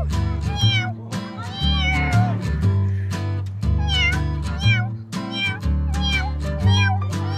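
Cat meows, short rising-and-falling calls repeated every second or so, over music with a steady bass beat.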